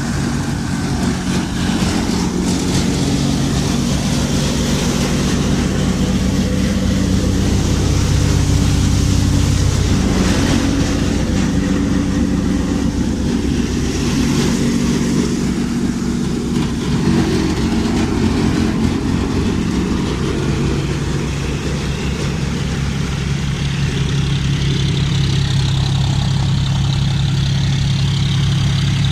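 John Deere 5205 tractor's three-cylinder diesel engine running steadily under load, driving a thresher, with the thresher running along with it. The engine note dips briefly about two-thirds of the way through, then settles again.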